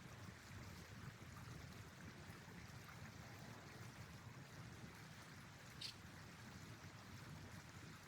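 Near silence: a faint steady hiss with a low rumble, broken by one short sharp click about six seconds in.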